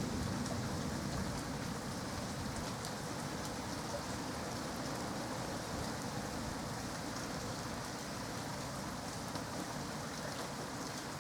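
Steady rain falling during a thunderstorm, an even hiss with scattered drop ticks.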